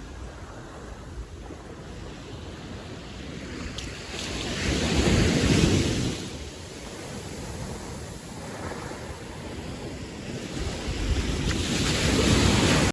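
Sea waves washing ashore, with a surge about five seconds in and another building near the end, and wind buffeting the microphone.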